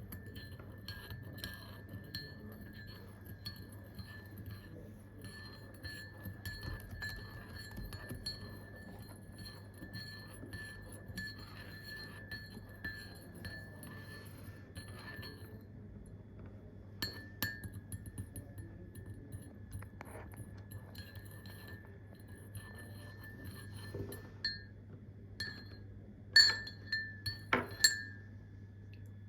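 Glass ringing with a steady tone under a run of small clinks and ticks; after a short pause, several sharp, louder clinks near the end. A low steady hum runs underneath.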